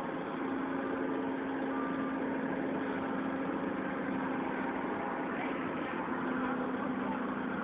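Heavy diesel engines of the loading forklifts running steadily, with an even hum.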